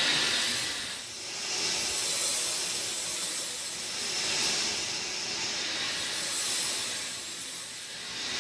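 Steady rain falling, a dense hiss that swells and eases every two seconds or so.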